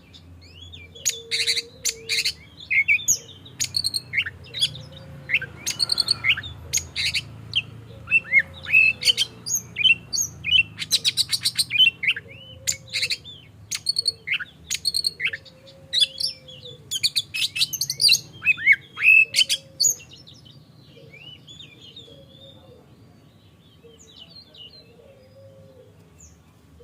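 Oriental magpie-robin (kacer) singing a loud, varied song of rapid whistles, sweeps and chattering trills, with a lower short call repeating in the background. About twenty seconds in the song drops to a few sparse, quieter notes.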